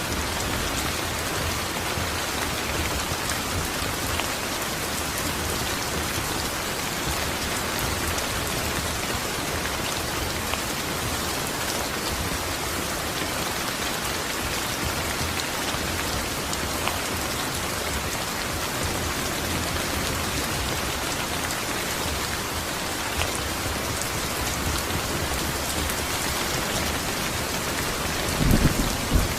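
Steady rain falling and pattering on surfaces, an even hiss with scattered drops. A brief low thump comes near the end.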